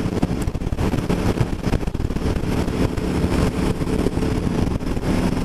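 Aprilia Tuono V4 1100 Factory's V4 engine running steadily while the bike is ridden, mixed with wind noise on the microphone.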